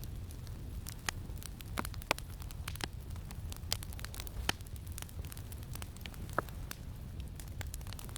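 Campfire crackling: irregular sharp pops and snaps, a few louder ones, over a steady low rumble.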